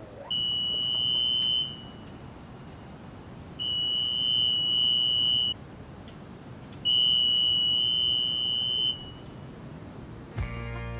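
An electronic beeper sounding three long, steady, high-pitched beeps, each lasting about two seconds. Music starts just before the end.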